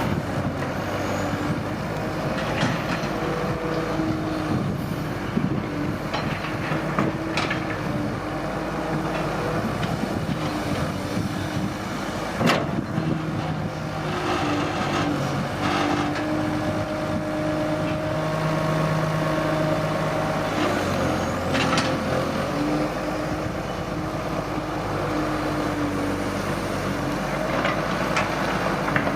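Heavy diesel excavator engine working, its note stepping up and down as the machine loads and eases off. Now and then a sharp knock is heard, the loudest about twelve seconds in.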